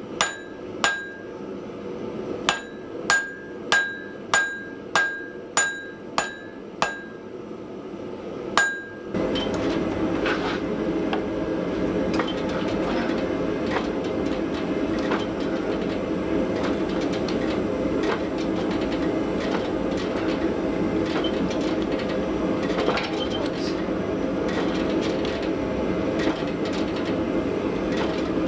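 Hammer blows ringing on an anvil, about ten strikes at an uneven pace over the first nine seconds, each with a bright ring. Then a steady, louder mechanical running noise starts suddenly and carries on.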